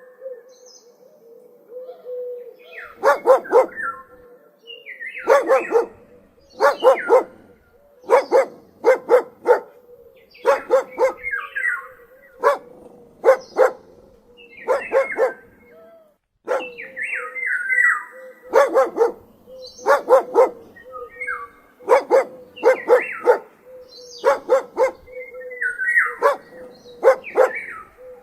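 A dog barking again and again in quick clusters of one to four barks, with short pauses between clusters.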